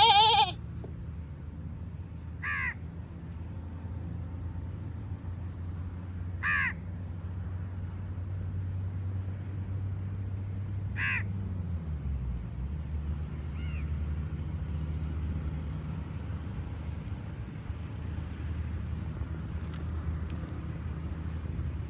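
A crow cawing four or five times, single short caws several seconds apart and growing fainter, over a steady low hum. A loud animal call, most likely a goat's bleat, ends right at the start.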